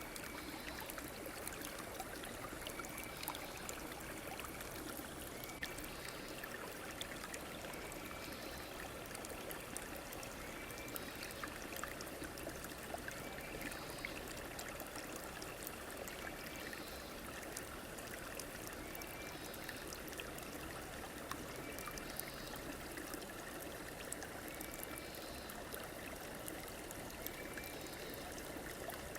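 A river or stream flowing steadily, an even rush of water. A faint short high call repeats every two seconds or so.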